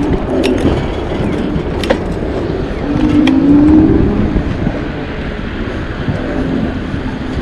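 Riding a 750-watt Engwe Engine Pro fat-tyre e-bike: low wind and rolling rumble, with the motor's whine rising twice. A few sharp clicks come through.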